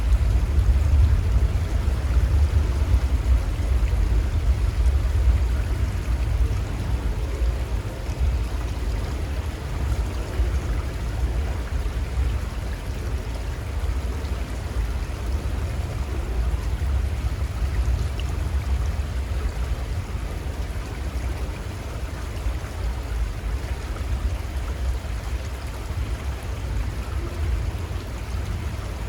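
Little Conestoga River flowing: a steady rush of running water with a heavy low rumble underneath.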